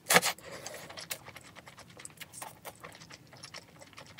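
Udon noodles slurped once right at the start, then chewed slowly: a run of small, irregular mouth clicks and smacks.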